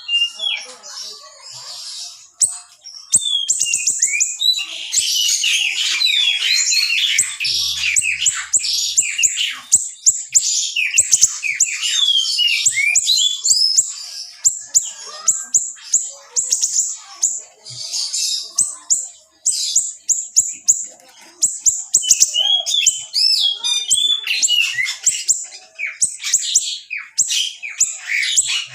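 Small songbird (the 'siri kecil' of Indonesian bird-keepers) singing a fast, dense song of sharp high chirps, trills and rapid note runs. It goes in tight, sharp bursts, with a couple of short pauses in the last third.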